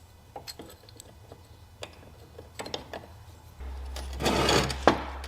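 Small metal clicks and clinks of hand work fitting a snap ring onto a shaft of a backhoe's loader control linkage, with a short rattle about four seconds in and a sharp click just after.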